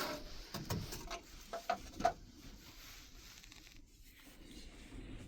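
A few light clicks and knocks in the first two seconds, then only a faint steady hiss.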